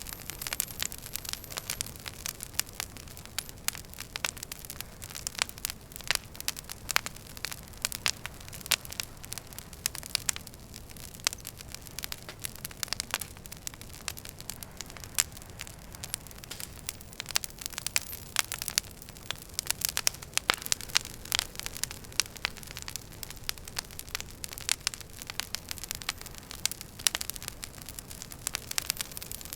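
Wood fire crackling in a fireplace: dense, irregular sharp pops and snaps of burning logs over a steady low hiss.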